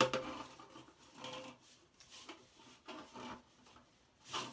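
Semi-rigid aluminum duct crinkling and scraping as it is handled and fitted, in a series of irregular bursts. The loudest is a sharp one right at the start.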